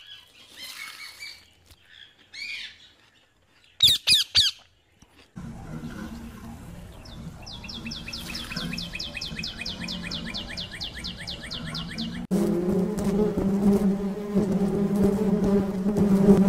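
A run of short animal sound clips: faint chirps, then a few loud squawks about four seconds in, then a fast high trill over a low hum. About twelve seconds in it cuts to a loud, steady buzz like a flying insect.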